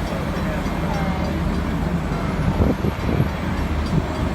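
Union Pacific Big Boy steam train rolling past with a steady low rumble. Two heavier thuds come about two and a half and three seconds in.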